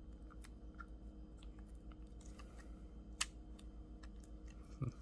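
Small clicks and taps of metal watch parts being handled as a watch movement is pushed back into its case, with one sharper click about three seconds in and a soft thump near the end, over a low steady hum.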